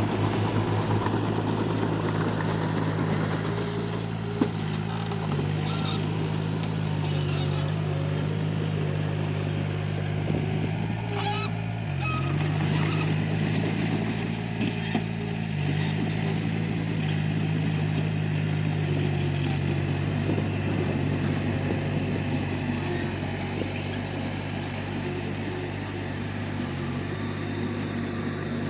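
Komatsu D31P crawler bulldozer's diesel engine running steadily, its pitch dipping briefly a few times, with a few light knocks about halfway through.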